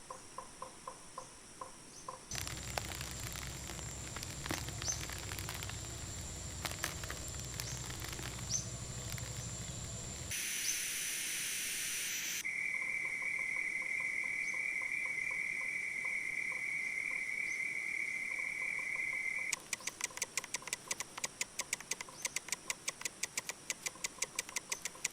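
Rainforest ambience in abruptly changing sections: rhythmic pulsing calls, then a low rumble with short high bird chirps, a brief loud hiss, a steady high-pitched insect drone, and finally rapid even clicks about four a second.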